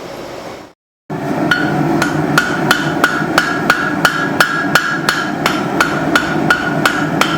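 Hand hammer striking hot leaf-spring steel on an anvil in a steady rhythm of about three blows a second, each blow leaving a bright ring. The sound cuts out completely for a moment just before a second in, and the hammering starts after the gap.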